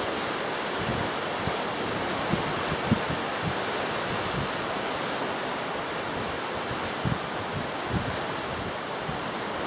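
Strong gusty wind blowing across the microphone: a steady rush with irregular low buffeting thumps.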